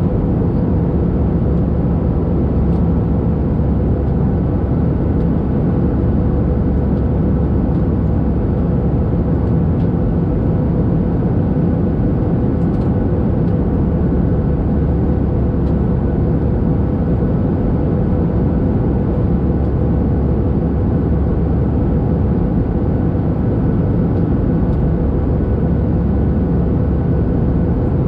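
Airbus A319 jet engines and airflow heard from inside the cabin, a steady, unchanging noise with a few fixed whining tones over a low rumble.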